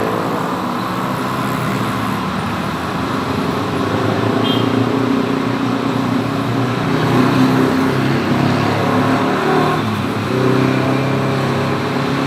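Engines running amid road traffic noise, their pitch rising and easing off over several seconds.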